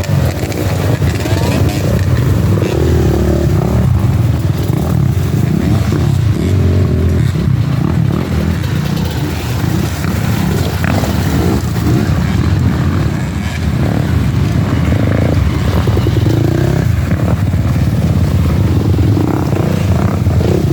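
Enduro dirt bike engines revving hard and continuously, the pitch rising and falling again and again as the throttle is worked.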